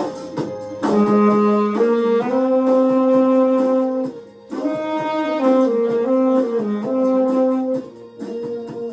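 A wind instrument played live, holding long notes and stepping between pitches in phrases, with a short break about four seconds in, over a backing track with a steady beat.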